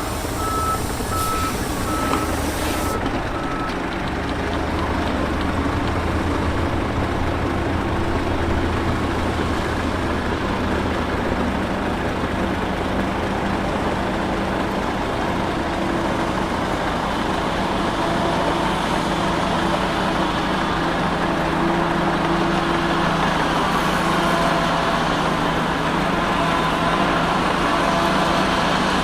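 Heavy diesel earthmoving machinery running steadily, with a reversing alarm beeping at an even pace in the first few seconds that stops about four seconds in.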